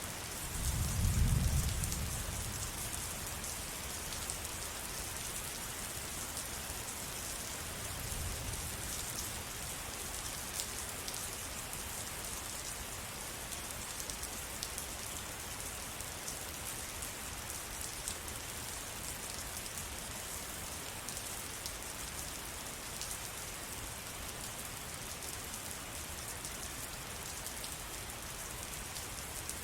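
Steady rain falling, with the patter of drops on surfaces. A low rumble swells in the first couple of seconds and again, weaker, about eight seconds in.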